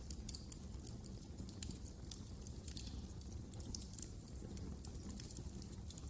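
Wood fire crackling: irregular sharp snaps and pops over a low, steady rumble of the burning fire.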